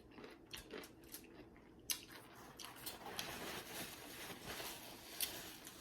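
Close-miked chewing of a mouthful of food: a few small clicks in the first two seconds, then steady wet chewing from about two seconds in.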